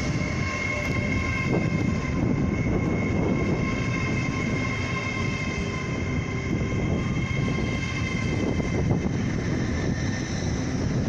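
GWR Intercity Express Train (Class 800-series) running past along the platform: a steady rumble of wheels and running gear with a steady high whine over it.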